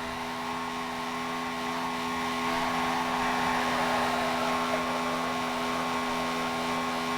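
Steady mechanical whir with a constant hum, growing a little louder a couple of seconds in.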